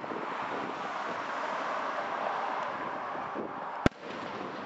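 Aerial fireworks display: one sharp bang of a shell bursting about four seconds in, over a steady rushing noise.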